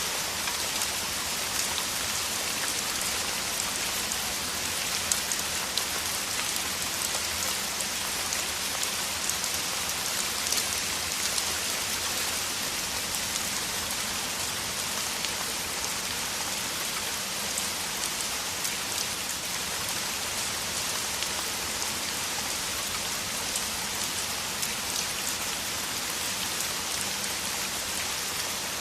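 Steady heavy rain, a dense even hiss of falling water with many individual drops pattering on surfaces.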